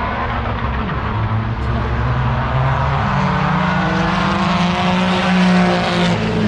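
Truck engine held at high revs. Its pitch steps up about halfway through and drops right at the end.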